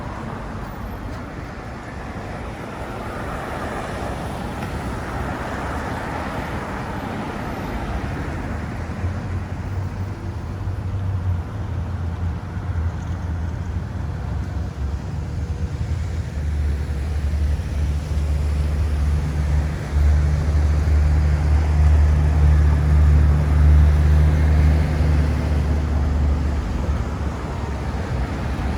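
Downtown street traffic: a car's tyres going by, then the deep, steady engine rumble of a heavy vehicle close by, building over the middle of the stretch and loudest near the end.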